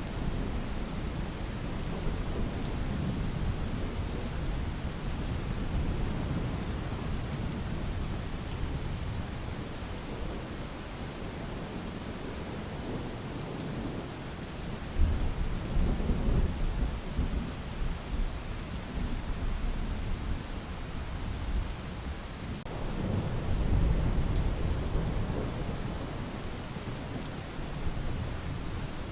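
Steady rain with rolling thunder: low rumbles swell in about halfway through and again later on.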